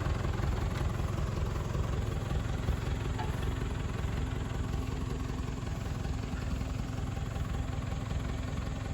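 Massey Ferguson tractor engine running steadily at low revs, with a steady hum joining about two and a half seconds in.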